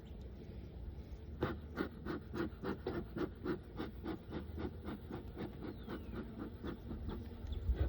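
A man's voice: a long run of short, evenly spaced breathy pulses, about three a second, starting about a second and a half in and going on for some six seconds.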